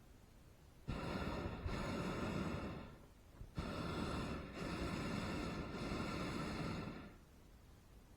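Hot air balloon propane burner firing in two blasts, a short one about a second in and a longer one from about three and a half seconds, each starting and stopping abruptly.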